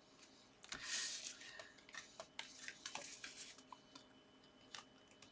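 Paper and card stock being handled: a short rustle about a second in, then a scatter of light ticks and taps.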